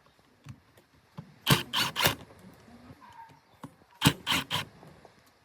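Two sets of three short, sharp strokes, one about a second and a half in and another about four seconds in, typical of hand-tool work on a part.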